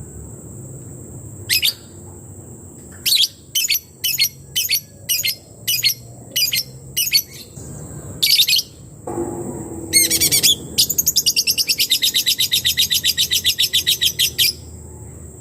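Lebet bird calling. It gives sharp single notes about two a second, then breaks into a fast, even ticking rattle, the 'ngetik' typing call, of roughly eight notes a second for about four seconds. A steady high-pitched tone runs underneath.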